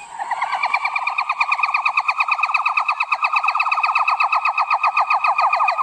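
A primate's call: a fast, even trill of rapid pulses at one steady pitch, held without a break, turning into separate falling notes at the very end.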